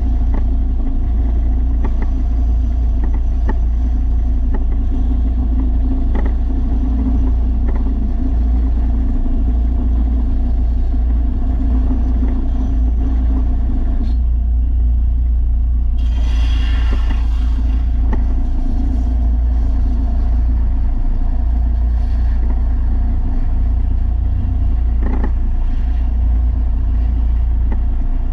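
Belt sander running steadily with a low motor hum while a steel mower blade is sharpened on its 300-grit belt. About two-thirds of the way through, a brief hissing grind rises over the hum.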